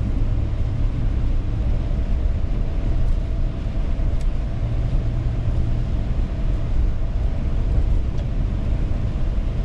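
Road noise heard from inside a moving car's cabin at about 40 mph: a steady, even low rumble of tyres and engine with a faint steady hum above it.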